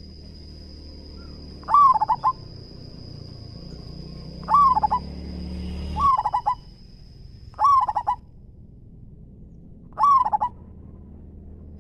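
Male zebra dove singing its cooing song five times, about every two and a half seconds: each phrase a loud opening coo followed by a quick stuttering run of notes. A steady high-pitched whine and a low hum sit underneath.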